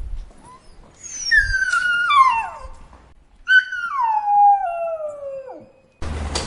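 A dog crying in two long, drawn-out whining howls, each sliding down in pitch. Just before the end a different recording cuts in abruptly.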